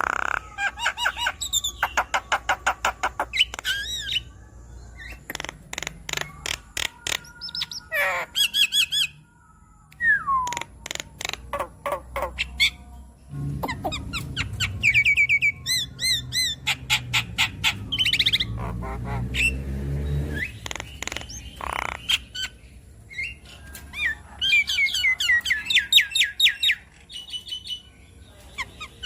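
Javan myna song: rapid chattering trains of clicks, whistled notes, glides and squawks, with a lower, buzzy rasping stretch in the middle.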